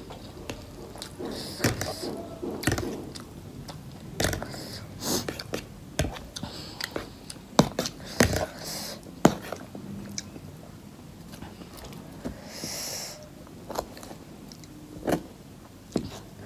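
Close-miked eating of spicy instant noodles: chewing with wet lip smacks and sharp mouth clicks at an irregular pace, and a few short breathy hisses in between.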